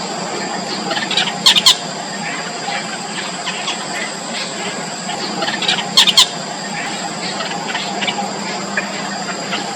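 Four-day-old nestlings squeaking with thin, high begging calls in short clusters, loudest about a second and a half in and again about six seconds in, over a steady background hum.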